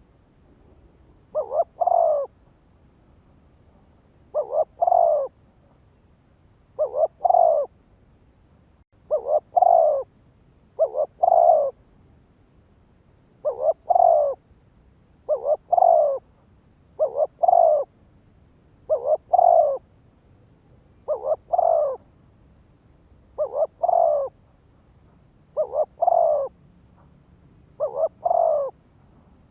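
Spotted dove cooing over and over: a short two-note coo phrase about every two seconds, each phrase falling slightly in pitch.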